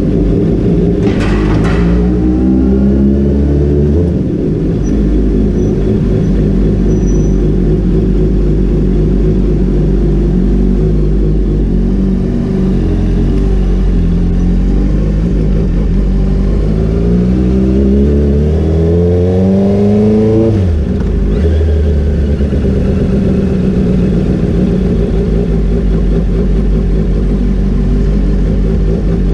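Honda CBR 650R's inline-four engine running, with one long rise in revs over several seconds that falls away sharply about two-thirds of the way through, and a shorter rise near the start.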